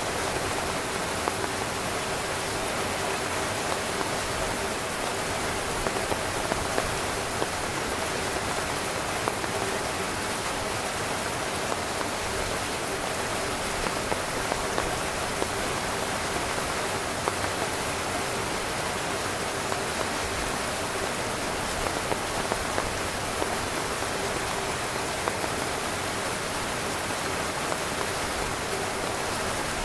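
Heavy rain falling on a tent, a steady dense hiss with frequent individual drops pattering on the fabric.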